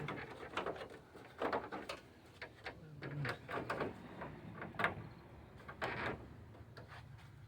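Plastic grille of a 1998 Chevy truck being worked loose from the core support: irregular clicks and knocks from its clips and fasteners being released and the grille shifting.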